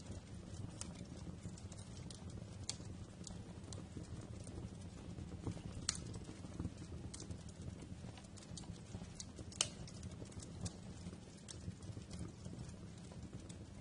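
Wood fire crackling in a fireplace: irregular sharp pops and snaps over a low steady rumble of the burning, with two louder snaps, one near the middle and one about two-thirds through.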